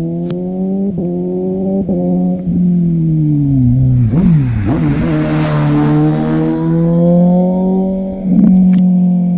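Sport motorcycle engines under acceleration, the pitch climbing with several quick, clipped breaks in the first three seconds, typical of quickshifter upshifts. Around four seconds in the pitch drops and a second engine tone crosses it with a rush of wind noise, then the engines settle into steadier running.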